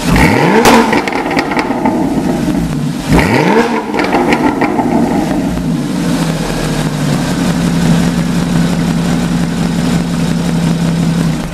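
Porsche 981 Cayman S flat-six through a TECHART valve-controlled sport exhaust, revving up sharply twice about three seconds apart, then holding a steady engine note that drops away right at the end.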